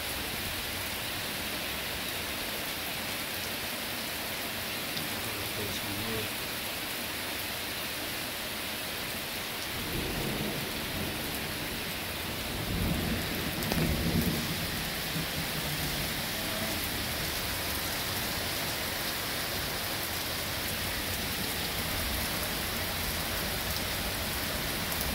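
Heavy rain pouring steadily on leaves and pavement, with a low rumble of thunder about ten seconds in and a longer one a couple of seconds later.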